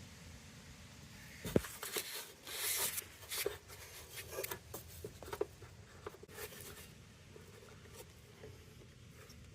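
Scattered light clicks and knocks, with a sharper knock about one and a half seconds in and a brief rustling scrape a second later, as of hands handling small parts.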